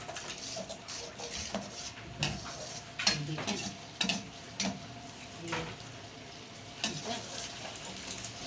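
Onions and garlic sizzling in hot oil in a steel karahi while a perforated metal spoon stirs them, scraping and clinking against the pan at irregular intervals, loudest about three to four and a half seconds in.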